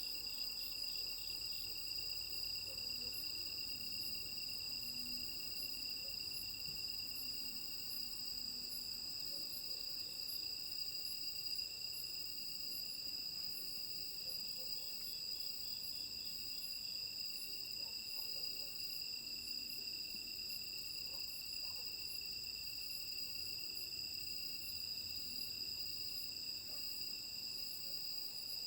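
Autumn night chorus of crickets and other insects: several steady trills at different pitches over a very high chirp repeating at an even pace.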